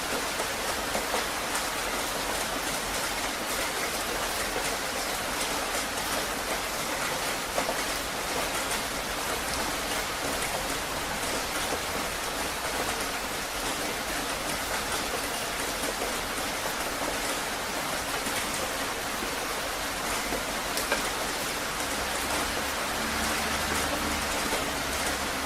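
Heavy rain falling steadily, a dense hiss of drops pattering on surfaces, with a few brief louder drop hits.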